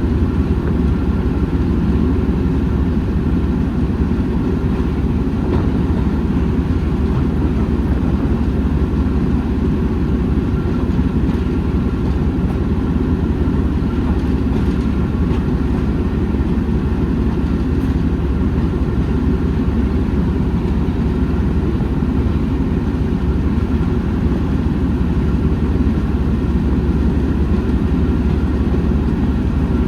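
Steady low rumble of a heritage railway train running, with a faint steady tone above it and no breaks.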